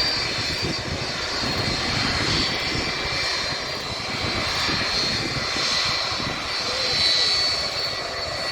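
Jet airliner passing overhead: steady engine noise with a high whine from the engines, swelling and easing slightly as it goes over.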